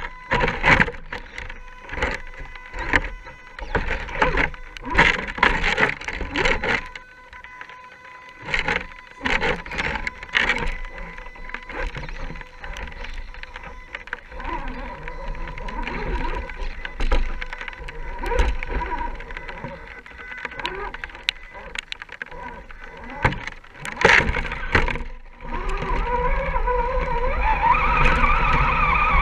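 Radio-controlled scale crawler truck driven over rough ground: its electric motor and gears whine while the chassis and tyres knock and clatter repeatedly. Near the end the motor whine grows louder and wavers as the truck is pushed harder.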